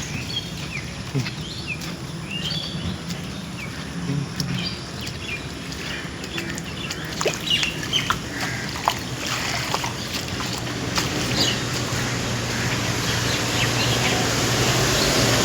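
Birds chirping and calling in short repeated notes over a steady low hum. In the last few seconds a broad rushing noise grows steadily louder.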